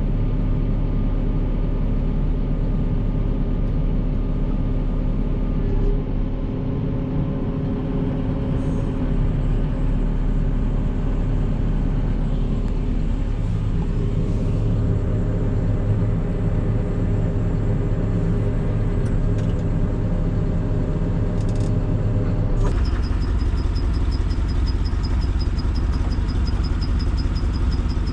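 Forage chopper and tractor running steadily while chopping corn silage, a continuous low machine drone. About 23 seconds in, the sound changes abruptly and a thin high whine joins in.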